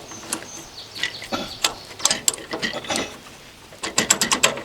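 Metal clicks and clanks as a PTO roller pump's coupler is worked onto a tractor's PTO shaft, ending in a quick run of clicks near the end.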